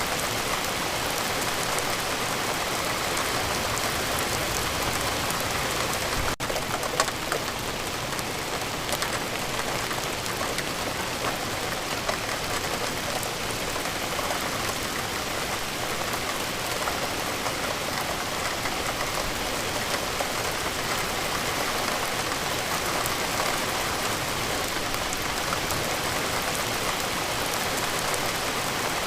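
Steady rain falling, a dense, even patter of drops. There is a momentary dip about six seconds in and a single louder drop just after it.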